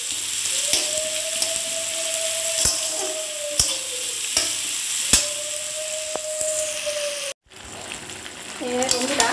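Sliced onions and tomatoes sizzling in oil in a metal kadai while a metal spatula stirs them, knocking against the pan about once a second. The sound breaks off briefly near the end, then frying and stirring carry on with chicken and potatoes in the pan.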